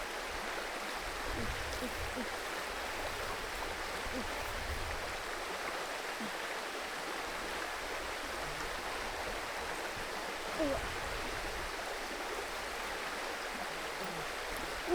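Forest creek water running steadily.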